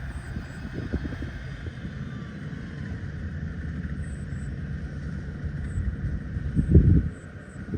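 Engines of farm machinery running under load while a mud-bogged combine harvester is pulled out with ropes: a steady low rumble with a faint whine above it, and a brief louder rumble near the end.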